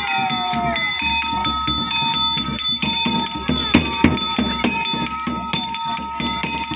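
Topeng monyet accompaniment music: small gong-chimes struck in a quick, steady rhythm, their bell-like notes ringing on, over lower drum-like beats.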